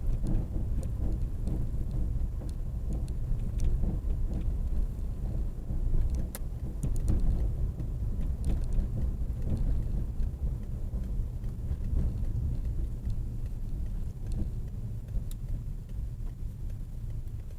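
Car engines and traffic giving a steady low rumble, easing off near the end, with scattered small clicks.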